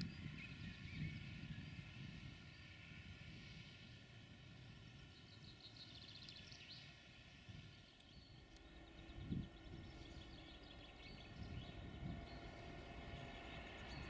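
Faint, distant rumble of a freight train running across open moorland, with a few bird chirps about halfway through and again later.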